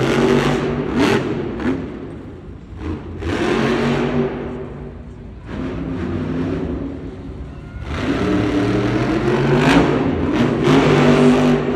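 Monster truck engine revving hard and easing off again and again, its pitch rising and falling, loudest in the last few seconds.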